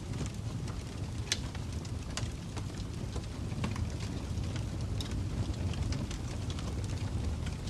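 Fire crackling: irregular sharp pops and snaps, the clearest about a second in, over a steady low rumble.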